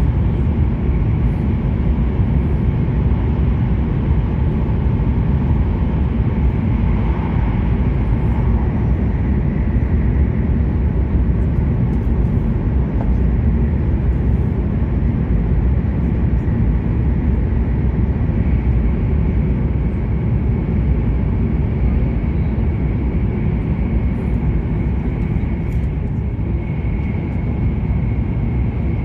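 E7-series Shinkansen heard from inside the cabin, running at speed: a steady, loud low rumble of the running noise, with a thin steady high whine that comes through more clearly in the second half.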